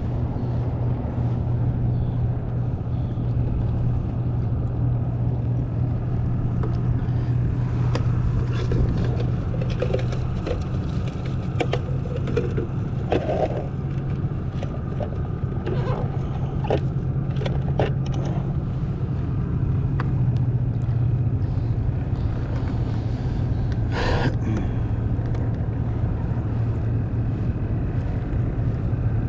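Boat motor running steadily with a low, even hum, with a scattered run of small clicks and knocks in the middle.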